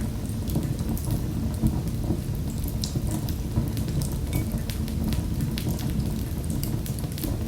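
Wood fire in a fireplace crackling, with many scattered sharp pops and snaps over a steady low rumble of the flames.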